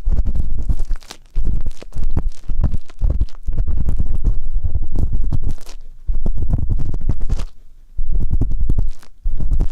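Ear pick scraping and rubbing right against the microphone: repeated low, rumbling scratching strokes, with brief pauses about a second in and near the end.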